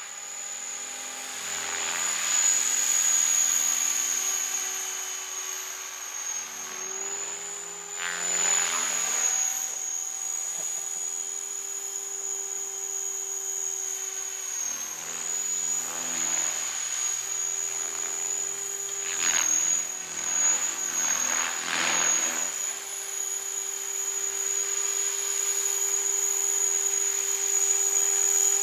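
Remote-control helicopter in flight: a steady high motor whine over a lower hum, with the pitch wavering slightly as the rotors work. Several brief whooshing swells of rotor noise come and go, and the sound grows louder near the end.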